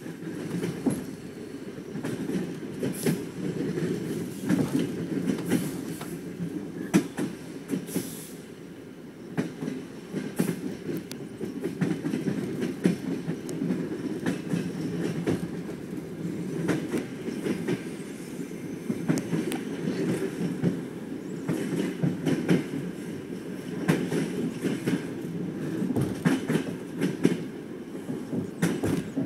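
Passenger train running, heard from inside the carriage: a steady rumble of the wheels on the rails with irregular clicks and knocks from the track.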